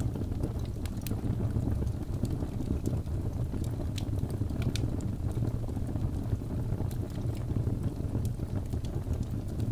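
Wood fire burning in a fireplace: a steady low rumble of flames with scattered sharp crackles and pops from the burning logs, several a second.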